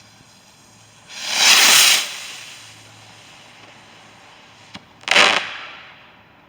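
Fireworks going off: a loud hissing whoosh lasting about a second, then a short, sharp burst about four seconds later that dies away quickly.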